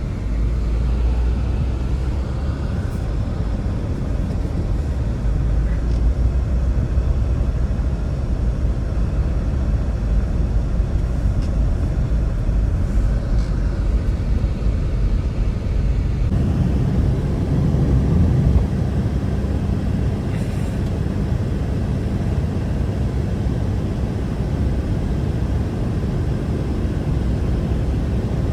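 Blizzard wind blowing hard, a steady low rumbling rush with some wind buffeting on the microphone. The rumble shifts abruptly a little over halfway through.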